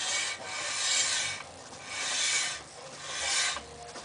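Brake disc of a Volkswagen Golf Mk2 rubbing, a scraping swish that swells and fades about once a second. The owner suspects the brake pads are dragging on the disc.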